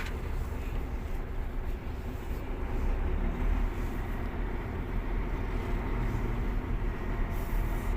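Steady low rumble of a Mercedes concrete mixer truck's engine, heard from inside the cab.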